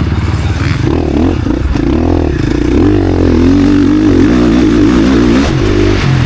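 KTM SX-F four-stroke motocross bike engine revving hard under racing throttle. The pitch rises and falls quickly, then drops about five and a half seconds in.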